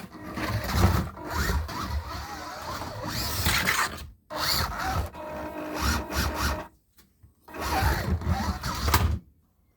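Scalextric slot car running on the plastic track: a small electric motor whining up and down in pitch over the rumble of the car on the track, cutting off abruptly three times.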